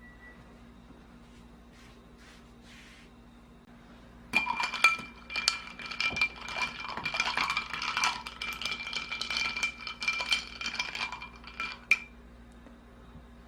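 Dense clinking and jingling of small hard objects, with a steady ringing tone under the clatter. It starts suddenly about four seconds in and stops with one last sharp clink near the end.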